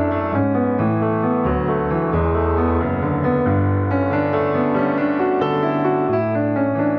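Piano music: chords and a melody over low bass notes that change about every second or two.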